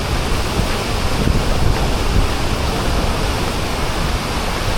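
Waterfall's rushing water: a loud, steady rush with a deep low rumble.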